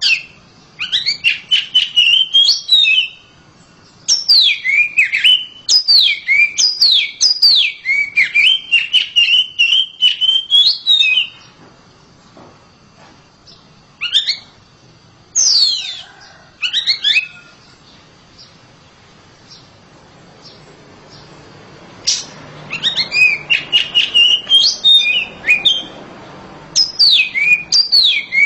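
Oriental magpie-robin (kacer) singing loudly in long phrases of rapid, sweeping whistled notes. A quieter gap of several seconds in the middle is broken by a few short calls before the song resumes near the end.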